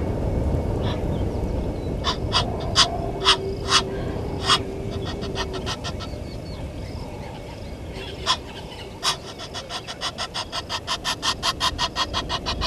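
A bird calling. It gives a few loud single sharp notes, then, from about two-thirds of the way in, a fast run of repeated notes that speeds up. A low rumble lies under the first half.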